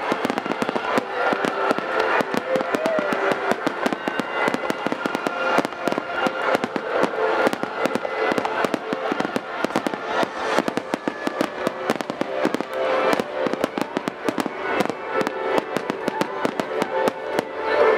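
Aerial firework shells bursting in rapid succession, a dense run of bangs and crackles, with music playing underneath.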